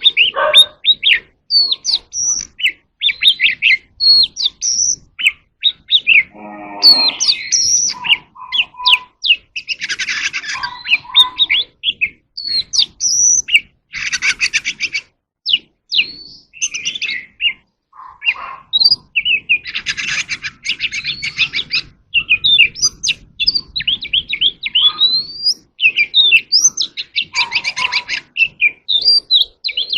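Oriental magpie-robin singing: a long, varied run of loud whistled notes and glides, broken several times by rapid buzzy rattles and harsh notes.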